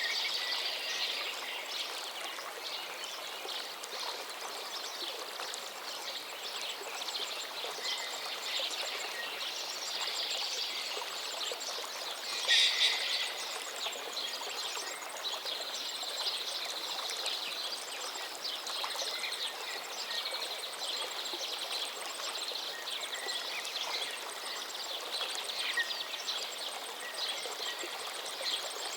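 River water running steadily, with birds chirping and calling over it throughout; one call about twelve seconds in is louder than the rest.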